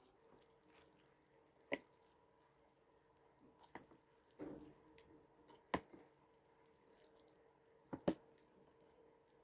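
Faint, sparse eating sounds from a bowl of noodle soup: a handful of sharp clicks and drips of utensils against the bowl, a few seconds apart, with a close pair near the end.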